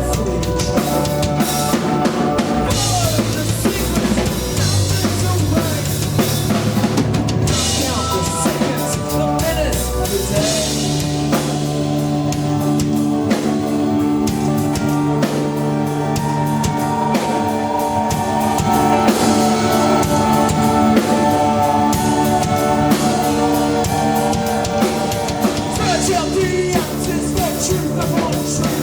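Live band playing with a loud drum kit (kick, snare and cymbals), a bass guitar line and held keyboard chords.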